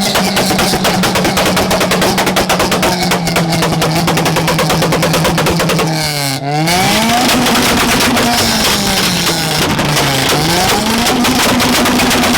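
Car engine held on a two-step launch limiter, letting out a rapid machine-gun string of pops and bangs at a steady pitch. About halfway and again near the end the revs dip and climb back.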